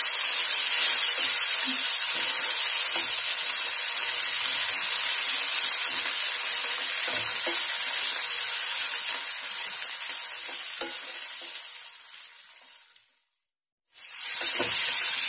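Chopped tomatoes and onions sizzling in hot oil in a non-stick frying pan, with a spatula stirring and scraping through them as the tadka is fried. The sizzle fades out near the end, drops to silence for about a second, then comes back.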